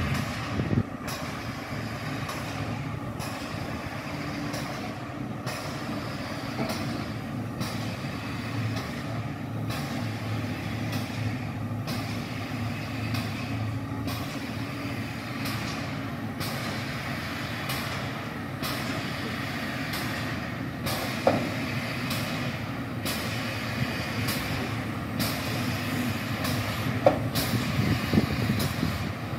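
MÁV class 424 steam locomotive hissing steam, with a regular pulse about once a second. There are a couple of short sharper sounds in the last third.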